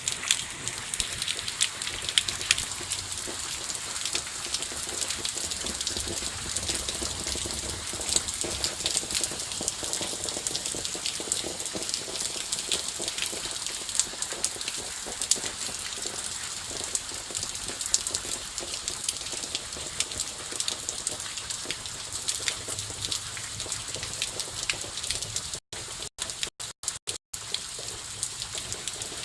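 Steady rain with many small drop impacts ticking through a continuous hiss. The sound cuts out to silence several times in quick succession near the end.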